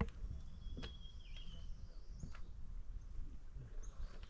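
Quiet outdoor ambience with a low rumble, a bird's whistled call that holds one note and then drops about a second in, and a few sharp knocks.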